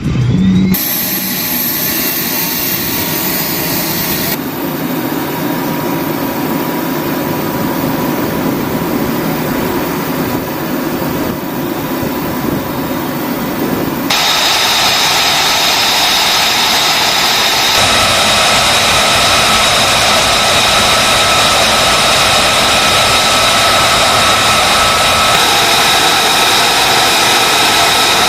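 Jet engines running with a steady, high turbine whine over a loud rushing noise, changing abruptly several times as if cut between shots.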